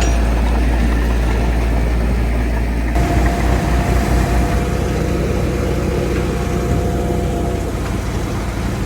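Diesel engine of heavy earthmoving machinery running steadily with a deep rumble. The sound changes abruptly about three seconds in, after which a steady whine runs over the engine until near the end.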